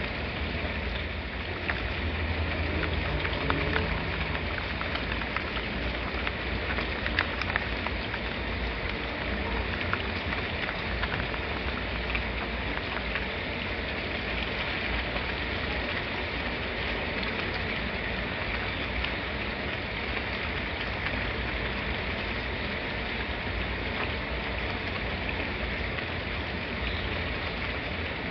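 Steady rain falling, with a few sharper drop ticks about a few seconds in and a constant low rumble underneath.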